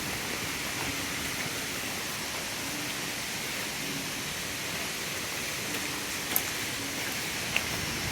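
Steady rain falling on a parked car, heard from inside, with a couple of single drip taps in the second half.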